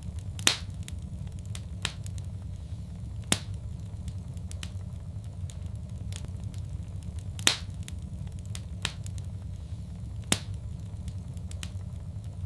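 Fire crackling in a fireplace: a steady low rumble of flames with sharp pops every second or two, the loudest about half a second in and again a little past the middle.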